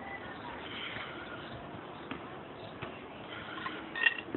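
Quiet outdoor background with scattered faint bird chirps and a few light clicks, with a slightly louder cluster of chirps near the end.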